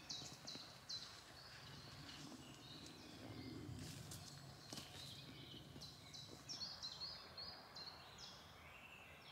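A songbird singing runs of short, quick, high falling notes, once near the start and again about two-thirds through, over faint forest background with a few soft clicks in the middle.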